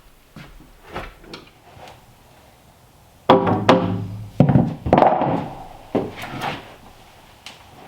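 Light tapping, then from about three seconds in a series of loud, heavy wooden knocks and thuds with a short ring after each, as timber is struck or handled.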